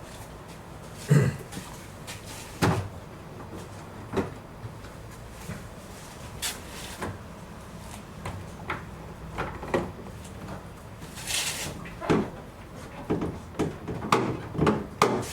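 A series of scattered knocks and clunks, like things being handled, opened and shut, with a short hissing rush a little past the middle.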